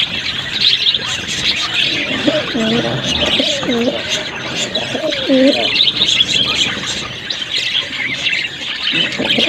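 Budgerigars chattering and warbling without a break. A lower call that dips down and rises again comes three times, around the middle.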